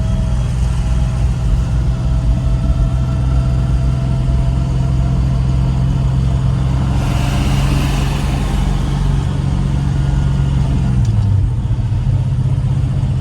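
A 1970 Plymouth Superbird's 426 Hemi V8, heard from inside the car, runs at a steady low cruise. About seven seconds in, a hiss swells for a second or two. Near the end, the engine note drops briefly.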